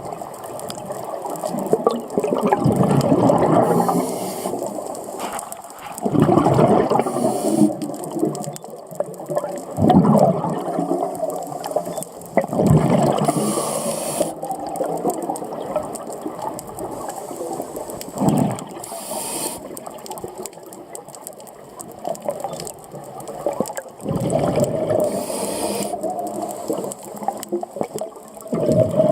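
Scuba regulator breathing heard underwater: exhaled bubbles gurgle out in bursts every few seconds, with short hissing inhalations in between.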